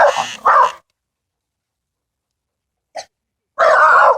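A dog barking: two quick barks, a short one a couple of seconds later, and a longer bout near the end.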